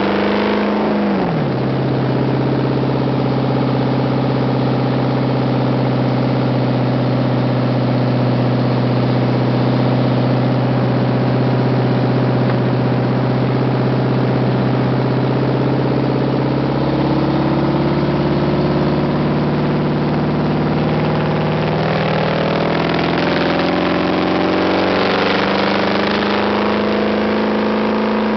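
2006 Jeep SRT-8's 6.1-litre HEMI V8 running through a straight exhaust with no mufflers or resonators. The revs fall about a second in, hold steady above idle for a long stretch, then waver and climb near the end before dropping back.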